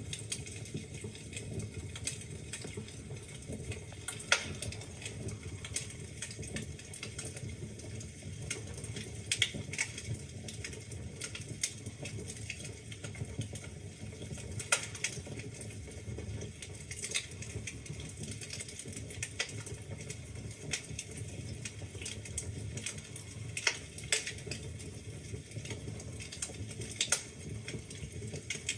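Wood fire burning in a fireplace: logs crackling and popping in sharp irregular snaps over a steady low rumble of flame.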